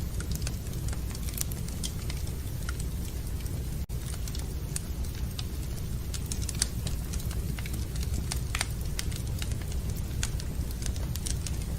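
Wood fire burning in a fireplace, crackling with irregular sharp pops and snaps over a steady low rumble. The sound drops out for an instant about four seconds in.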